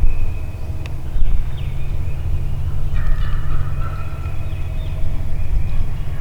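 Wild turkey gobbling in spring woods, with a strong call about halfway through, over a steady low rumble.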